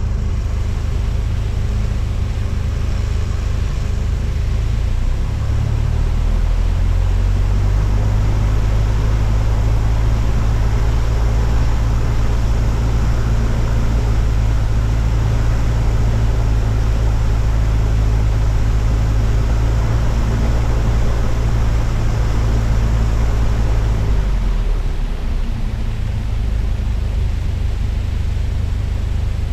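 Cessna 172's piston engine and propeller running as a steady low drone, which grows louder from about six seconds in and eases back about twenty-four seconds in.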